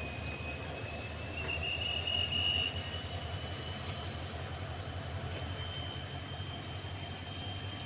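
Bangladesh Railway intercity passenger coaches rolling slowly past on metre-gauge track: a steady low rumble with a few faint clicks, and a thin high wheel squeal that rises slightly in pitch and is loudest about two seconds in.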